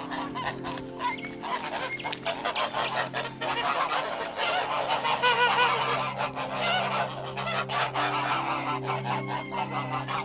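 Geese honking, many calls overlapping, growing busier from about halfway in.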